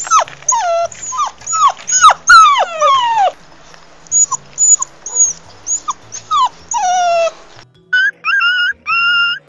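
A dog crying: a fast run of short, high whimpers and yelps, each falling steeply in pitch. About eight seconds in it cuts to a different recording of short, high, level-pitched whine-like tones repeated every half second or so.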